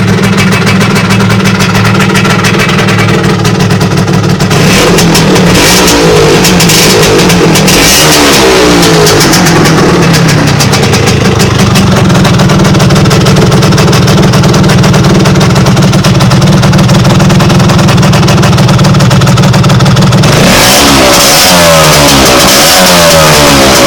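Vespa P200E's two-stroke single-cylinder engine running through a Simonini expansion exhaust and Leo Vinci silencer. It idles steadily at first, is revved up and down several times from about five seconds in, settles back, and is revved again repeatedly near the end.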